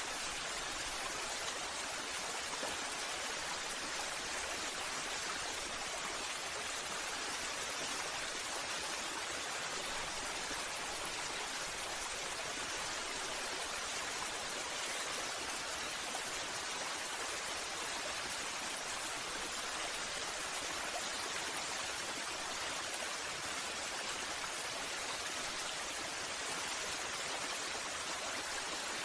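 Waterfall: a steady rush of falling, splashing water, bright and hissing with little low rumble.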